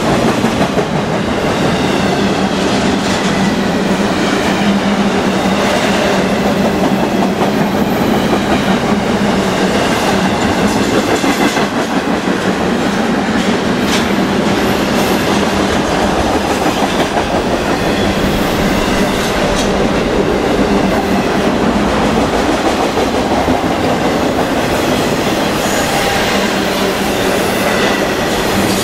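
Intermodal freight train's flatcars rolling past close by: a steady loud rumble of steel wheels on rail, with clicks as the wheels cross rail joints and a few faint high wheel squeals.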